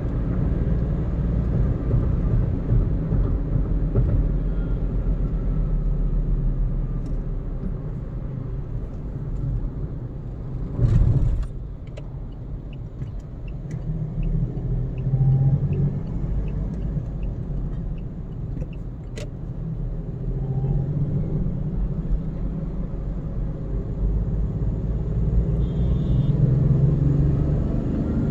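Steady road and tyre rumble of a car driving at speed. A loud whoosh comes about eleven seconds in, then soft regular ticking at about two a second for several seconds.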